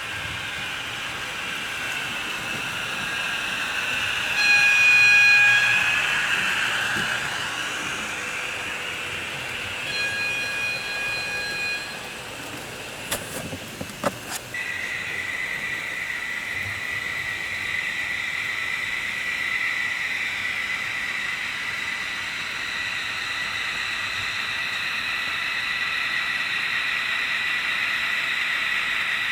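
HO scale model train running on its track, with its sound decoder's horn sounding twice, the first time loudest. A few sharp clicks come about halfway through, then a steady high whine sets in and holds.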